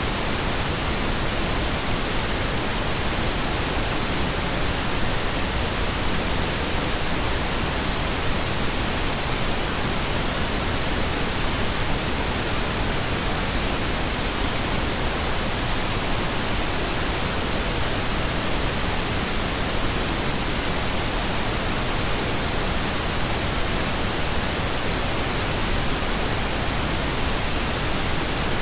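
Steady synthetic pink noise: an even, unchanging hiss spread across all pitches, with no events or rhythm.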